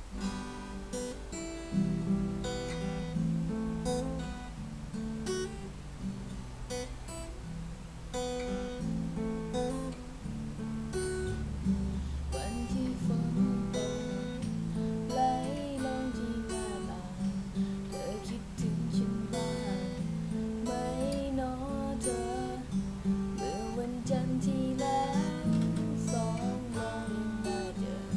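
Acoustic guitar played as an instrumental, with strummed chords under a plucked melody.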